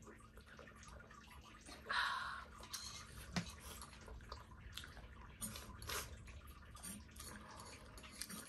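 Close-up mukbang eating sounds of people eating pork momos: wet chewing, lip smacks and small mouth clicks, with a short louder wet sound about two seconds in.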